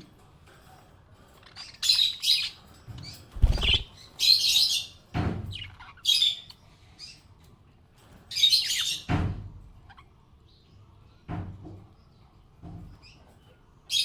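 Small pet parrots chirping in short, bright, irregular bursts, with several dull low thumps in between.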